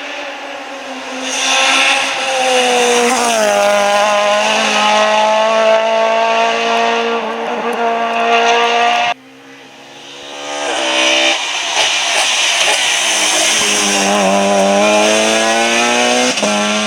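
Rally cars driven hard on a stage, the engines pulling through the gears with sharp pitch steps at each shift. About nine seconds in, the sound cuts abruptly to a second car that swells in as it approaches and accelerates.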